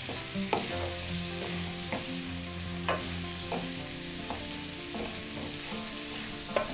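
Smoked catfish frying in oil in a stainless steel wok, sizzling steadily while a wooden spatula stirs it, scraping and knocking against the pan over and over.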